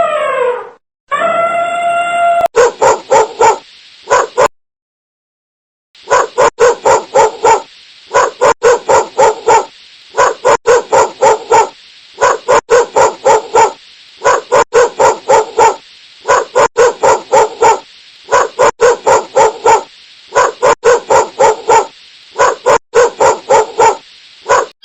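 A dog gives two drawn-out, pitched howling whines, the first falling at its end. It then barks in quick bursts of five or six sharp yaps, repeated about every two seconds.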